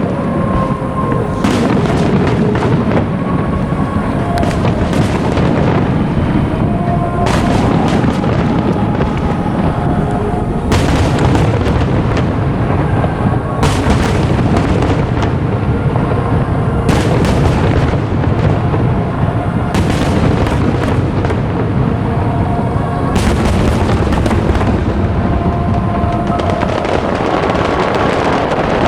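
Aerial firework shells bursting in a dense, irregular barrage, with several heavy booms, over music playing at the same time.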